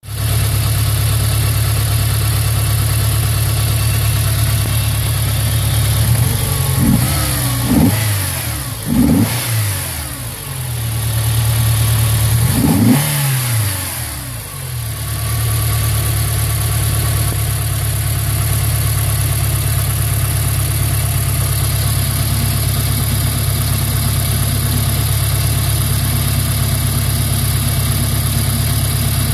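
Renault F4R 2.0-litre four-cylinder petrol engine idling with a misfire, blipped up in revs several times in quick succession about a third of the way through, each rev rising and falling back, then settling to a steady idle again.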